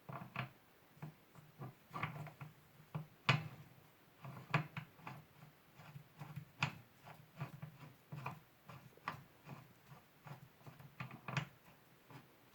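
Bicycle pedal being worked on by hand, irregular knocks and clicks, one to three a second, with a few sharper metallic clacks.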